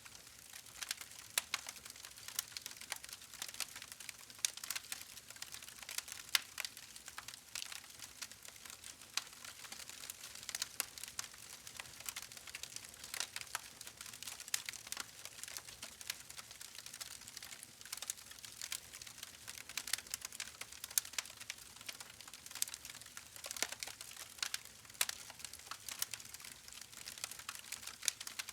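Campfire crackling: burning wood giving off irregular sharp pops and snaps, several a second, over a steady hiss.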